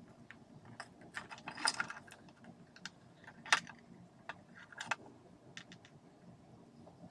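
Scattered clicks and light rattles of small parts and tools being handled while working on a Makita ML807 lantern's housing and switch. The sharpest click comes about three and a half seconds in.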